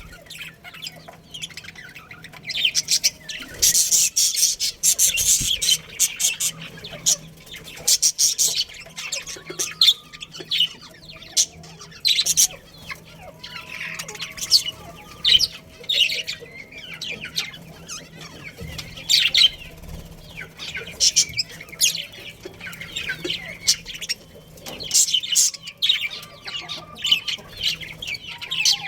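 Budgerigars chirping and chattering: busy bursts of rapid, high warbling chirps every second or two.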